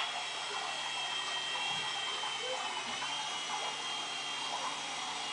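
Small electric RC helicopter in flight: a steady high-pitched whine of its motor and spinning rotors, the pitch dipping slightly about three seconds in.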